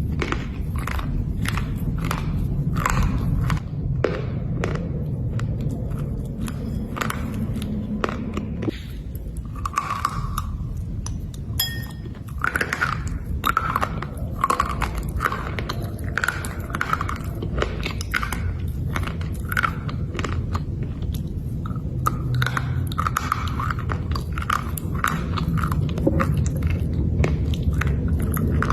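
Black slate bars being bitten and chewed: a long run of short, crisp crunches and crackles, over a steady low background rumble.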